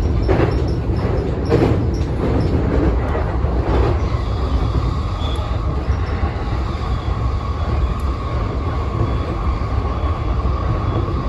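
Electric commuter train running on steel rails, heard from the driver's cab: a steady low rumble, with a few clacks over track joints in the first few seconds. About five seconds in, a steady whine comes in as the train rounds a curve.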